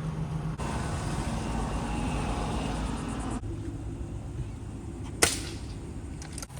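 A steady low rumble with a single sharp, loud crack about five seconds in.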